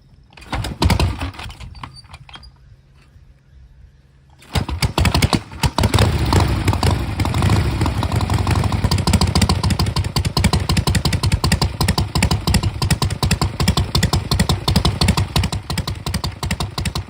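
Motorcycle engine starting with a sharp burst and settling to a low, steady idle. About four and a half seconds in it breaks into loud, rapid firing pulses as the engine is revved hard and ridden.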